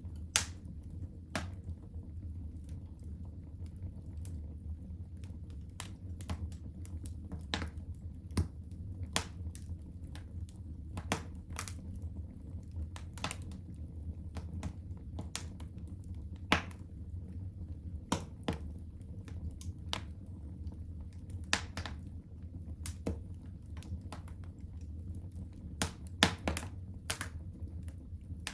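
Fire burning in a fireplace, crackling: irregular sharp pops and snaps, a few a second, over a steady low rumble of the flames.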